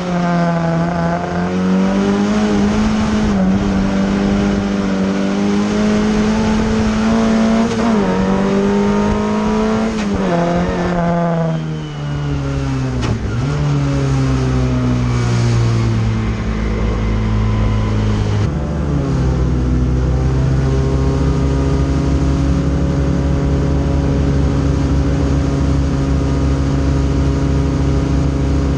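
Fiat 600 folkrace car's engine heard from inside its stripped, caged cabin, revving up and down through gear changes at racing speed. About twelve seconds in the revs drop away, and from about eighteen seconds it holds a steady, lower note.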